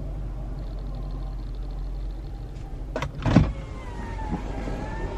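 Car sounds in a service drive: a steady low rumble, with a sharp click and then a loud thump about three seconds in.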